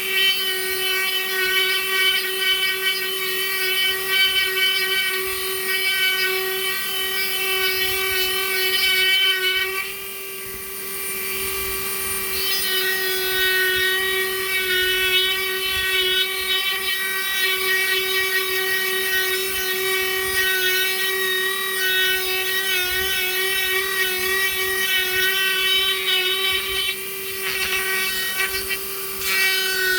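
Small high-speed power tool motor running steadily with a high whine, briefly lighter about a third of the way in, working wood.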